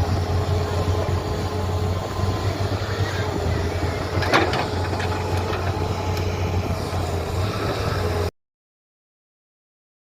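Heavy diesel machinery engine running steadily under a noisy rumble, with a sharp metallic knock about four seconds in. The sound cuts off abruptly near the end.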